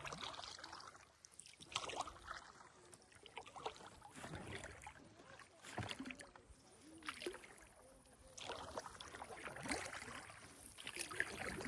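Kayak paddle strokes dipping and pulling through the water, with swirls of splashing and dripping that come in swells every couple of seconds.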